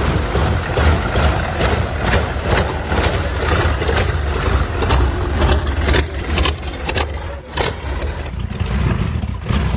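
A large car engine running loudly, with irregular sharp crackles and pops from the exhaust.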